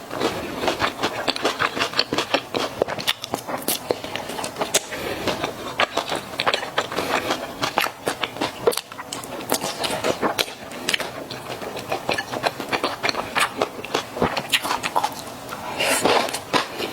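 Close-up eating sounds of mala xiang guo with chewy Chinese glass noodles: continuous chewing with many small, irregular wet clicks and smacks.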